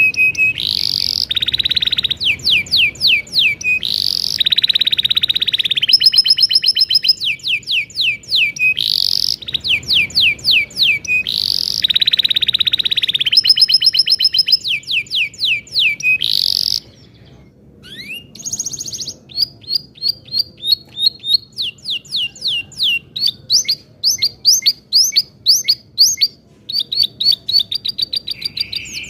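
Domestic canary singing loud, continuous song: long buzzy rolls alternating with rapid trills of repeated down-sweeping notes, broken by a brief pause about two-thirds through.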